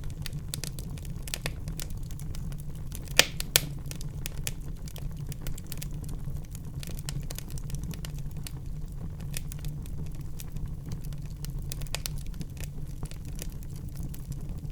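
Wood fire burning in a fireplace: a steady low rumble under constant crackling, with two loud pops close together about three seconds in.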